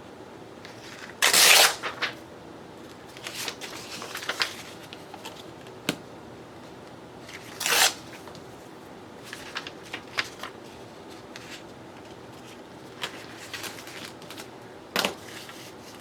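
Paper being handled on a craft table: three short, louder rustles of paper, one near the start, one in the middle and one near the end, with small taps and clicks between.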